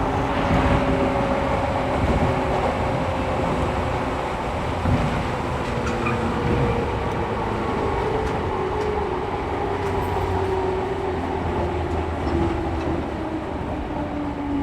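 JR 113 series electric train heard from inside the passenger car, running with a steady rumble of wheels on rail. Its motor and gear whine falls slowly and steadily in pitch as the train slows.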